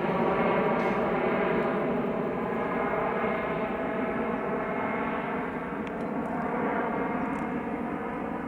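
Airbus A320's jet engines at takeoff power: a steady droning rumble with several held tones in it, slowly fading as the aircraft moves away.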